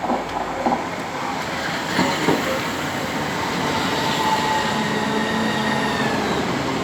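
Electric passenger train moving through the station. There are a few knocks in the first couple of seconds, then a steady multi-toned whine that falls slightly in pitch.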